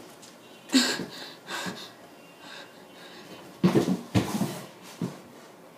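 A person's breathy, wheezing sounds in about five short bursts.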